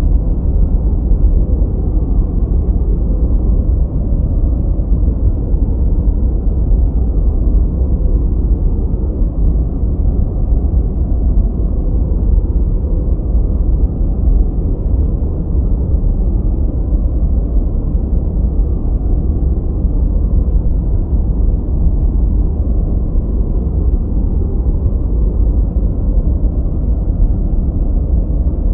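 Steady, deep, muffled noise with no high hiss, like brown noise. It is an even, unchanging rumble.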